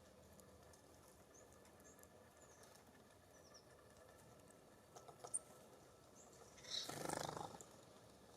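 Quiet bird-feeder soundscape: a few faint, short high chirps from small birds, a few light taps just after the middle, and one short, rough, noisy burst about seven seconds in.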